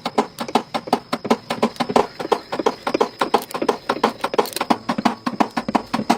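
Rapid, uneven series of sharp taps or knocks, about five a second.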